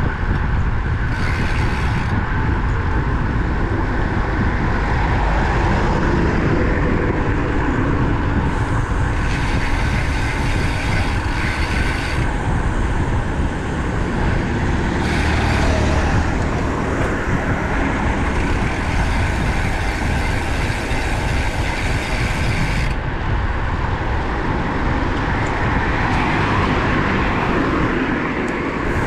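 Steady wind rush over the microphone of a moving road bike, with highway traffic going by. Several stretches of louder hiss come and go.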